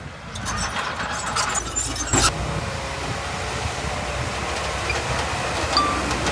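Heavy earthmoving machinery running steadily, with a scatter of clicks in the first two seconds and one sharp metallic clank about two seconds in.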